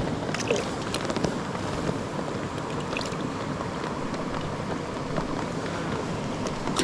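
Small mountain creek running steadily over its bed, with a few faint light clicks.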